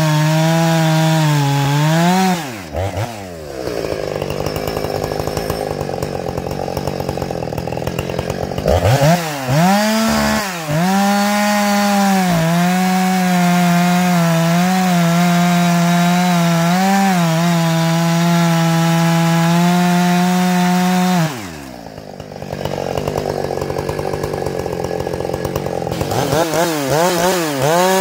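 Ported, muffler-modded Husqvarna 455 Rancher chainsaw running at full throttle, its pitch dropping sharply twice as the throttle comes off and climbing back with a few quick revs before it is held wide open again.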